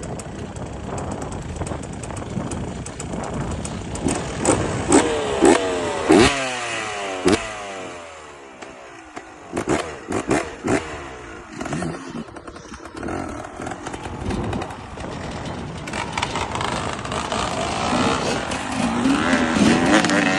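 Enduro motorcycle engine revving in a run of short blips, pitch rising and falling. It drops low for a few seconds with several sharp clattering knocks about halfway, then builds up again near the end.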